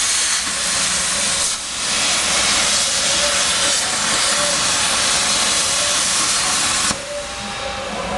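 Plasma cutting torch on a CNC cutting table running with a loud, steady hiss, dipping briefly about a second and a half in. The hiss cuts off about seven seconds in, leaving a fainter machine hum with a steady tone.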